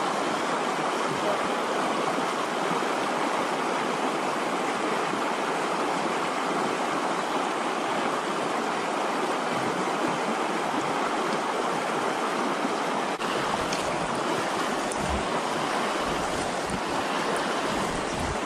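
Steady rushing of river rapids, white water pouring over rocks.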